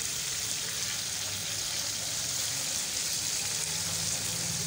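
Minced-beef kebab patties sizzling in ghee in a frying pan over a low flame, a steady even hiss.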